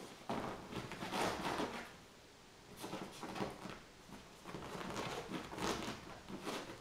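Chinese Crested puppy's paws pattering and claws scrabbling as it dashes about in a post-bath frenzy, in repeated flurries broken by short pauses.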